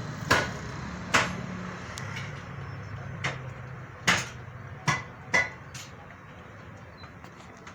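Metal tools clinking and knocking against metal, about seven sharp separate strikes at uneven intervals, over a faint low engine hum.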